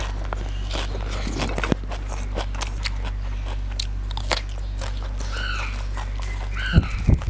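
Close-up mouth sounds of a man eating by hand: wet chewing with sharp crunches and smacks. A short high chirping call comes twice in the second half, and a few low thumps come near the end.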